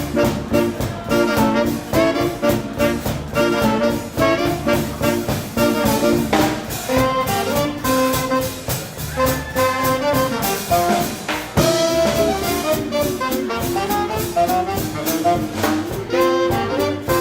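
Live swing band with saxophone, trumpet and trombone, playing an instrumental passage over a steady drum beat.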